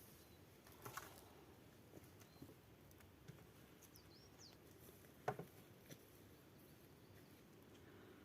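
Near silence: quiet forest ambience with two faint knocks, about a second in and again past five seconds, and a few short high bird chirps around four seconds.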